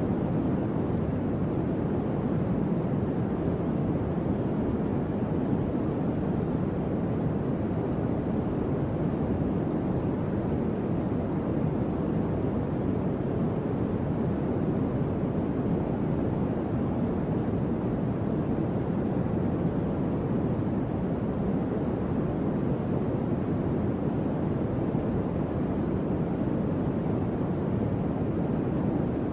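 Electric fan running steadily: an even, unchanging rush of air, mostly low-pitched, with no audible motor hum, ticks or rattles.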